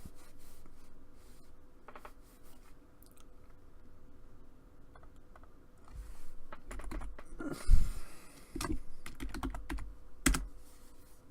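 Typing on a computer keyboard: a few scattered keystrokes, then a denser run of keys from about six seconds in, with one louder thump near eight seconds.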